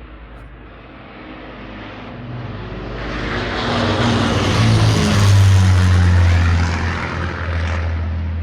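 Avro Lancaster bomber flying past, the drone of its four Rolls-Royce Merlin piston engines building to its loudest about five seconds in, the pitch dropping as it passes, then settling into a steady deep drone as it moves away.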